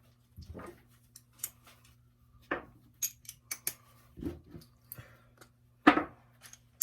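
Metal hand tools clinking and knocking: sockets and extensions being handled and fitted, a string of separate clinks with the loudest knock near the end, over a faint steady low hum.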